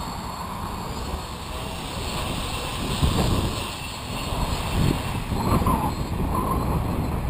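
Gusty wind buffeting the microphone, rising in louder gusts about three seconds in and again near the end, with the steady whine of a large quadcopter's brushless motors and propellers faintly underneath.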